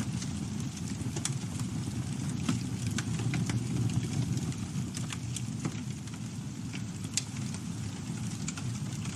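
Campfire burning: a steady low rumble of flames with irregular sharp crackles and pops of burning wood, several a second.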